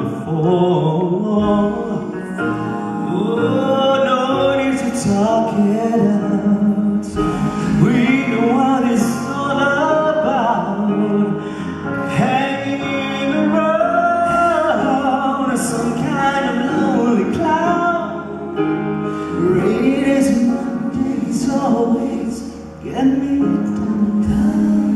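Male voice singing long, gliding melodic lines with no clear lyrics over sustained instrumental accompaniment, in a live concert performance of a pop ballad.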